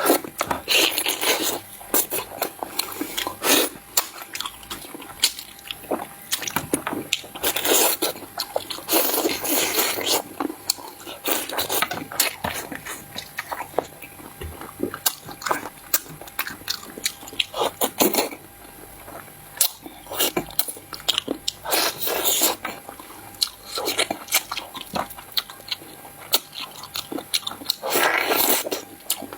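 A person eating close to the microphone: chewing and biting, with many sharp clicks and crunches throughout.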